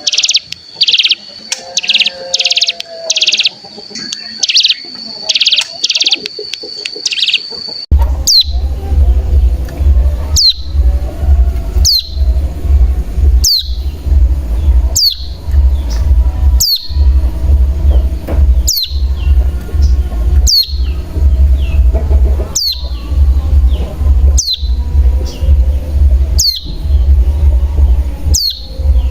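Recorded ciblek gunung (hill prinia) calls used as a lure track. For the first eight seconds or so, a quick series of high notes runs over a held high whistle. Then a sharp falling high call repeats about every two seconds over a low pulsing beat.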